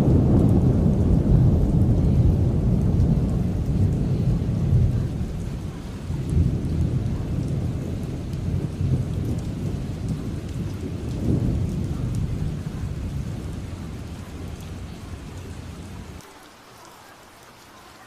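Long rolling thunder rumbling over steady heavy rain, swelling again twice and slowly dying away. It drops off abruptly near the end, leaving only the rain.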